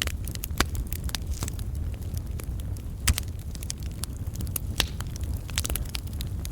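Wood campfire burning, logs crackling and popping in irregular sharp snaps over a steady low rumble of flame, with one louder pop about three seconds in.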